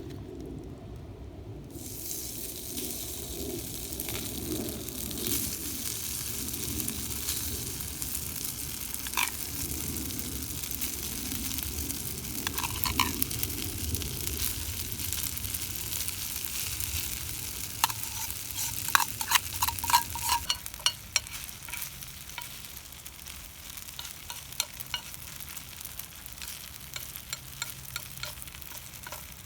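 Food sizzling on a hot iron griddle plate, the sizzle starting about two seconds in. Sharp metallic scrapes and clicks of a utensil against the plate come through it, thickest about two-thirds of the way through.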